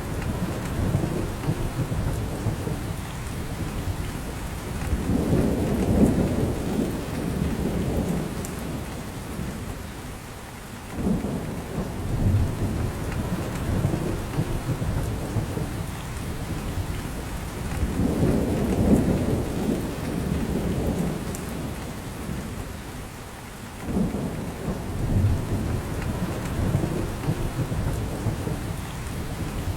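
Steady rain falling in a spruce forest, with drops falling from the branches, under a low rumble that swells and fades and comes back about every 13 seconds.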